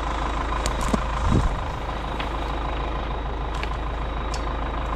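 An engine idling steadily, with a brief low thump or rumble about a second in and a few faint clicks.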